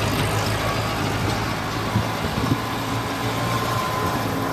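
Mahindra Arjun tractor's diesel engine running steadily while pulling a trolley loaded with soil.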